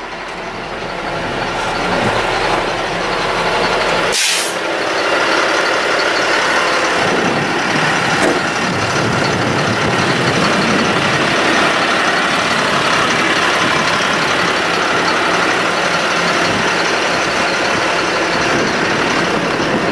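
Ford F-750 truck idling with its power take-off engaged, a steady even running noise. One sharp knock about four seconds in.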